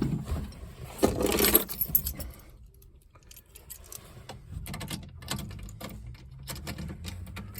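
A loud scuffling rustle about a second in, then a run of small metallic clicks and jingles: a bunch of car keys being handled and worked toward the ignition before the engine is cranked.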